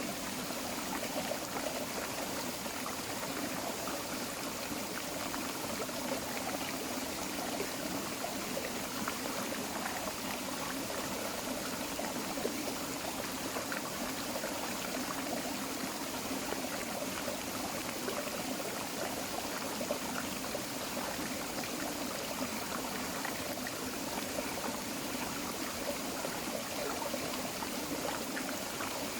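Small forest creek flowing steadily over rocks, a continuous babble and trickle of water.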